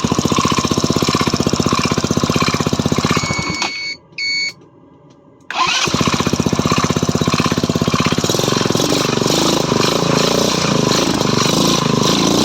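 Stels Kapitan scooter's 161QMK single-cylinder four-stroke engine running with a rapid, even knock. It is switched off about four seconds in, a short beep sounds, and about six seconds in it is started again and runs on, the knock still there.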